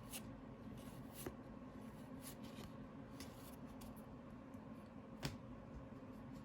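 Faint rustling and light clicks of trading cards being handled and slid against each other, over a steady low hum. Two sharper clicks stand out, about a second in and about five seconds in.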